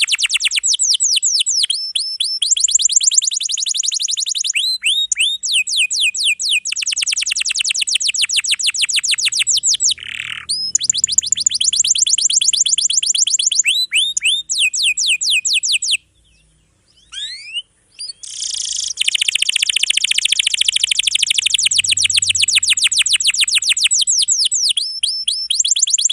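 Domestic canary singing long, rapid rolls of repeated high notes. About two-thirds of the way in, the song breaks off briefly with a few sliding whistles, then rolls on.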